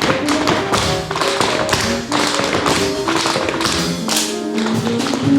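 Tap shoes striking the floor in quick, rapid rhythms over show-tune music, a company dance number.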